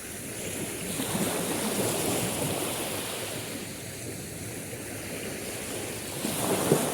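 Sea waves washing onto the shore: a steady rush of surf that swells about a second in, with a louder wave breaking near the end.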